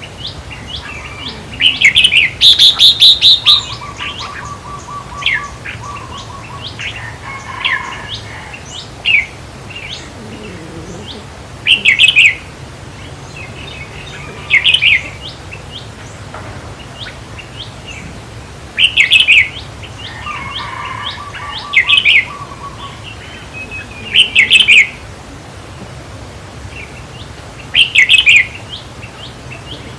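Red-whiskered bulbuls singing short, loud, bubbly phrases every few seconds, with softer chattering calls between them, over a steady low hum. This is bulbul song of the kind used to call and rouse other bulbuls in decoy trapping.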